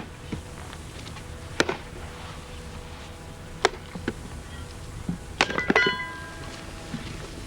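Sharp, irregularly spaced knocks of a wooden mallet striking a splitting axe to split a hardwood trunk into blanks, with a quick run of blows about five and a half seconds in, one of which rings briefly like metal.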